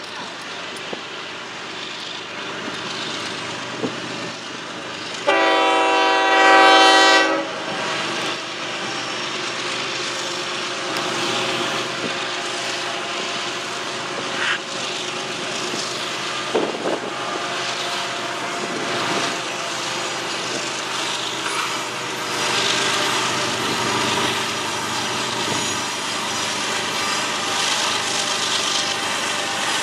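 Diesel freight locomotive's air horn sounding one loud blast of about two seconds, roughly five seconds in, over the steady sound of a freight train running on the rails.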